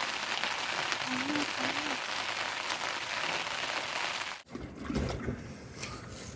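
Rain falling steadily, an even hiss, which cuts off abruptly about four seconds in, giving way to quieter low sounds and faint voices.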